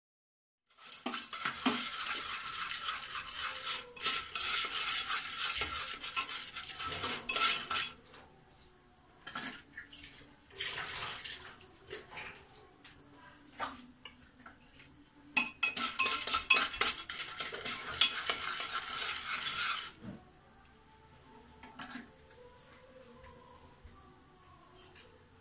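A metal spoon stirring and scraping in a metal cooking pan, sautéing popcorn mix. It comes in spells of several seconds with sharp clicks, broken by pauses with a few light knocks.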